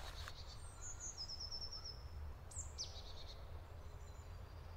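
Woodland birds calling: a quick trill of about six high notes just over a second in, then a high call sliding down in pitch about two and a half seconds in, with fainter calls between, over a low steady rumble.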